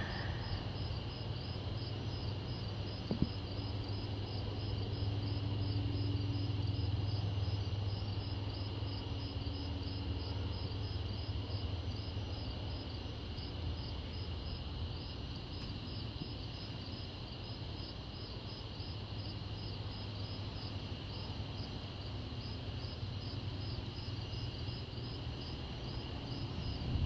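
Night insects calling, with crickets chirping in an even pulse about two to three times a second over a steady high trill. A low rumble swells and fades through the first half.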